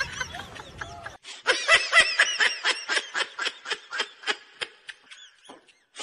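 Laugh sound effect: a fast run of short, high-pitched snickering laughs, about six a second, lasting about three seconds before it tails off.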